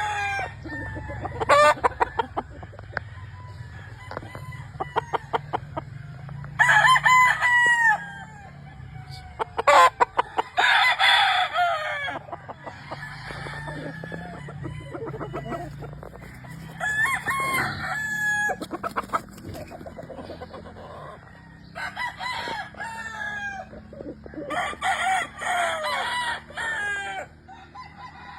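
Black gamefowl roosters crowing one after another, about six crows in all, with clucking between the crows.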